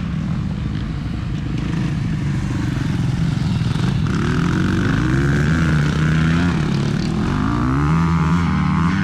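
Motocross dirt bike engines running on the track, revving in surges, with the pitch climbing about four seconds in and again near the end.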